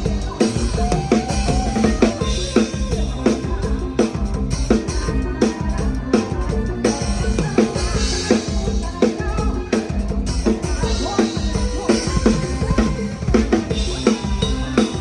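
PDP drum kit played live in a band, bass drum, snare and rimshots keeping a steady, busy beat, with the rest of the band's music underneath.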